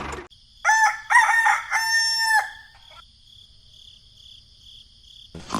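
A rooster crowing once: a cock-a-doodle-doo of about two seconds that ends on a long held note.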